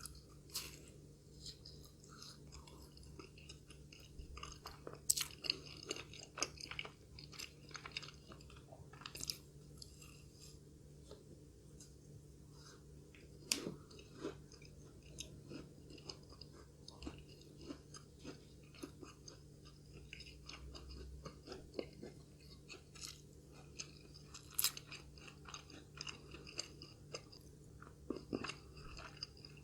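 Close-miked chewing of a fried curry puff, soft mouth sounds broken by irregular crisp crunches of its pastry, a few of them sharper and louder than the rest. A faint steady hum lies underneath.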